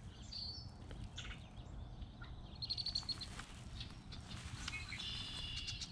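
A bird calling in short, rapid, high-pitched trills, three times, over faint outdoor background noise.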